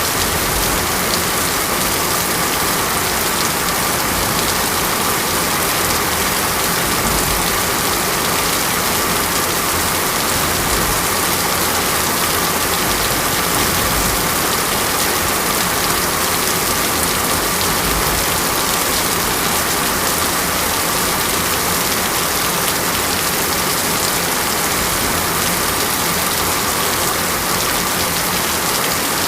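Heavy rain falling steadily on a surface, a dense, even hiss of drops with no breaks.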